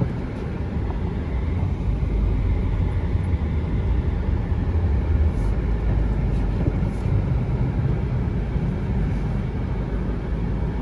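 All-wheel-drive car driving on a snow-covered road with tire chains fitted, a steady low rumble of engine and tyres.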